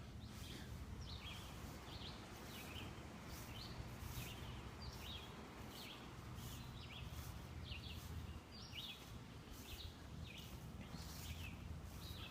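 Birds chirping repeatedly in short, falling notes, faint, over a low steady outdoor rumble.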